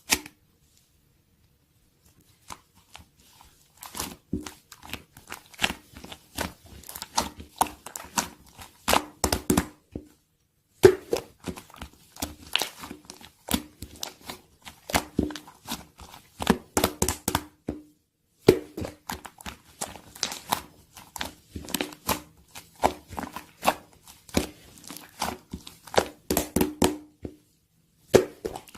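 Slime being squished and pressed by hand, making dense runs of crackling clicks and small pops. The runs come in stretches of several seconds broken by brief pauses.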